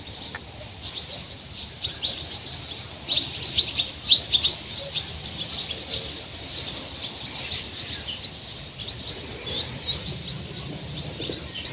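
Small birds chirping: many short, high chirps scattered throughout, busiest about three to five seconds in.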